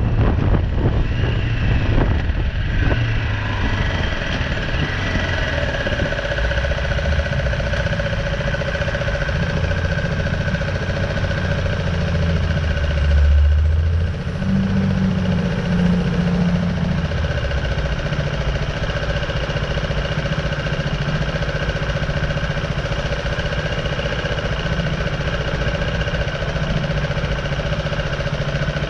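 BMW G310R's single-cylinder engine idling steadily, with wind noise in the first few seconds and a brief louder swell about halfway through.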